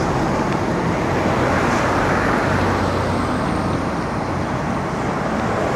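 Steady road traffic noise: an even, continuous rush of vehicles on a city road, with no single passing vehicle or horn standing out.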